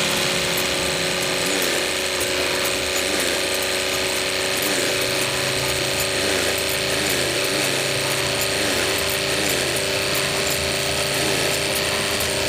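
Small electric motor with a gearbox running steadily, a continuous whir of gears.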